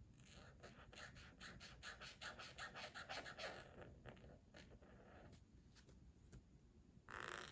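Coloring tool scratching on paper in quick back-and-forth strokes, about six a second, for the first few seconds. A few scattered light taps follow, then a short louder rub near the end.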